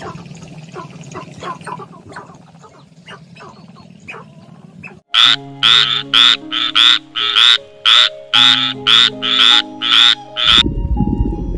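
Frogs croaking: soft scattered clicks at first, then about halfway in a loud, rapid run of short croaks, roughly three a second. A loud low rushing noise takes over near the end.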